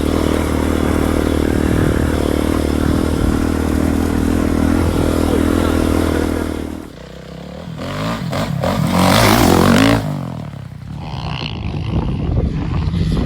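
Dirt bike engines running at steady revs. About seven seconds in the sound drops away, followed by a loud stretch of about two seconds of revving, with pitch swinging up and down, that cuts off suddenly.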